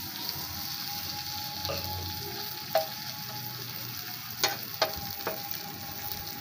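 Sliced onions sizzling in oil on a flat tawa griddle while a metal spatula stirs them, clinking sharply against the pan four times, mostly in the second half. The onions are at the browning stage that starts the keema.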